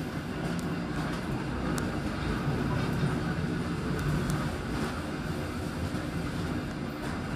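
Passenger train running slowly, heard from its rear end: a steady low rumble and hum, with a few light clicks from the wheels on the rails.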